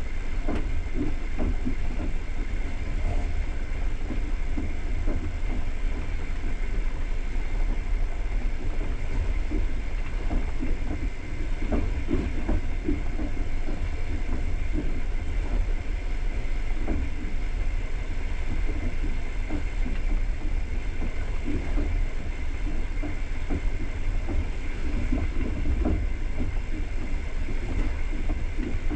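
Passenger railway coach running at speed: a steady low rumble from the wheels on the track, with irregular knocks and rattles.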